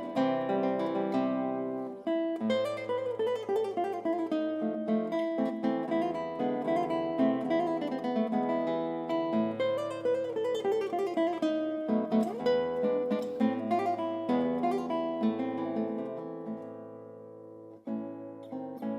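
Background music on acoustic guitar: plucked and strummed notes over a moving bass line, fading down near the end before a new phrase starts.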